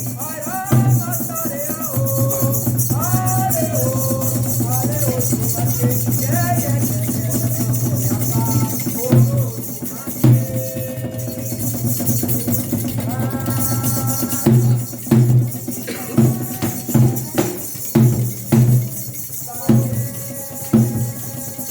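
Candomblé ritual music for Xangô: voices singing over drums and shaken rattles. About two-thirds of the way in, heavy drum strokes start to stand out at roughly one to two a second.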